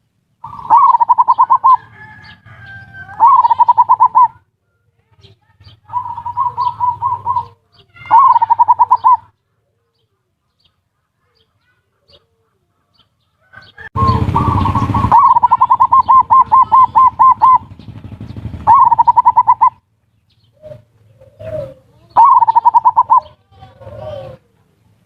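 Zebra doves (perkutut) cooing in the ngerot and kuwor styles: loud phrases of rapid, evenly pulsed coos, each a second or two long, repeated with pauses between. A short burst of noise comes about fourteen seconds in, and a few short lower coos near the end.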